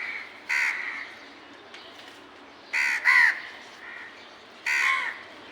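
Crows cawing: about four harsh caws, one about half a second in, two close together near the middle, and one near the end.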